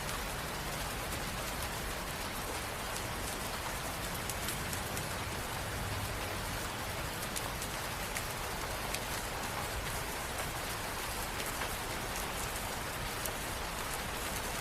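Steady rain falling, an even hiss with many small drop ticks, at a constant level.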